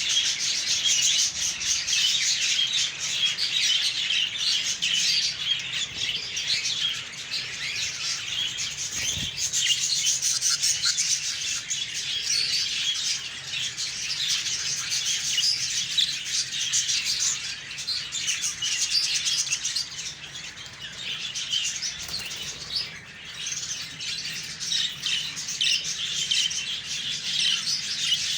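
A colony of budgerigars chattering together, many overlapping chirps and warbles forming a continuous dense twitter.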